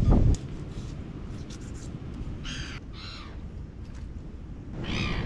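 A bird gives three short calls, two close together about two and a half seconds in and one near the end, over a steady low rumble of wind and surf.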